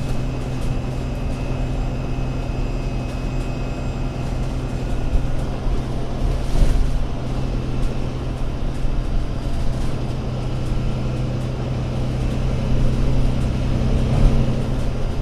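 Engine of an Alexander Dennis Enviro500 MMC double-decker bus, a Euro 6 diesel, running at a steady speed with an even low hum. The engine note rises slightly near the end.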